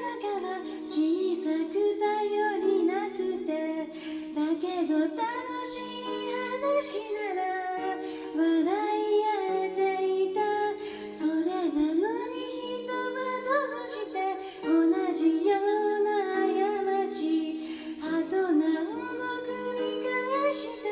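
Female voice singing a slow pop ballad with a second voice in harmony, over a gentle piano accompaniment.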